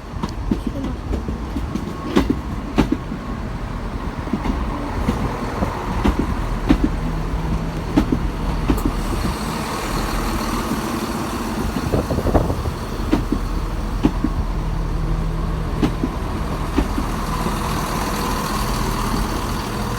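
Class 170 Turbostar diesel multiple unit arriving at the platform, its diesel engines giving a steady low drone, with scattered sharp clicks and knocks.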